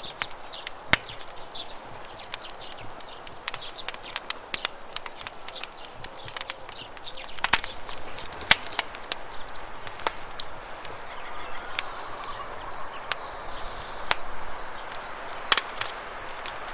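Wood campfire crackling, with frequent irregular sharp pops and snaps, over the steady rush of running river water.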